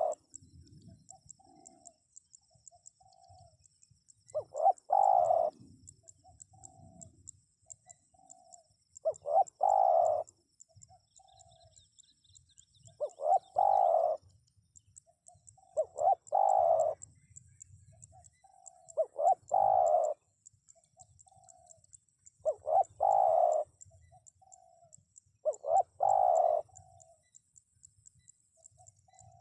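Spotted dove cooing, repeating its song phrase about every three seconds: each phrase is a loud coo with softer, shorter coos trailing after it.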